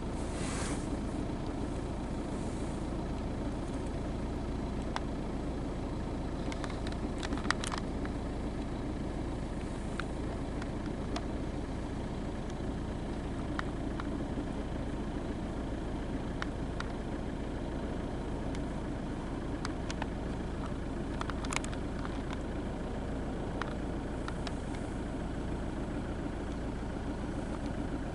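Car engine idling steadily, a low even rumble, with a few faint clicks now and then.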